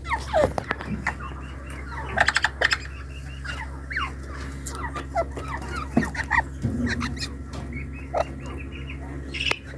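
Tame partridges (teetar) calling: many short, downward-sliding notes and clucks, with a quick run of sharp notes about two seconds in, over a steady low hum.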